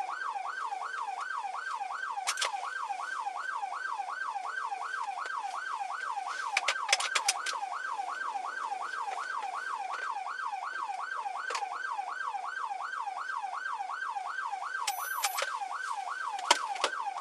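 Police car siren on a fast yelp, its pitch sweeping up and down about three times a second without a break. A few short clicks come through in the middle.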